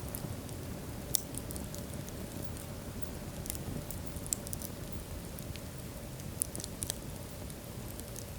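Wood fire burning in a fireplace: a steady low rumble and hiss with scattered sharp crackles and pops, the loudest a little over a second in and twice more around six and a half to seven seconds in.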